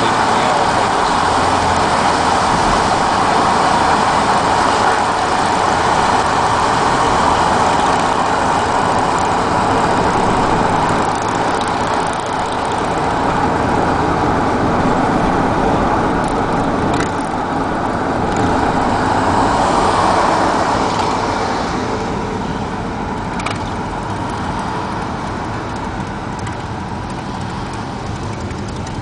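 Steady road traffic noise of motor vehicles running, with one swelling louder about twenty seconds in before easing off.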